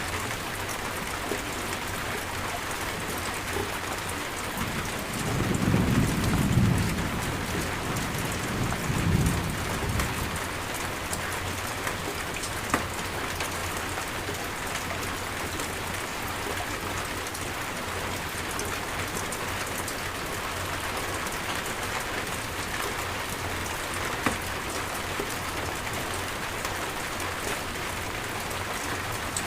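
Steady heavy rain falling on surfaces, with a low rumble of thunder swelling about five seconds in and rolling on for several seconds before fading.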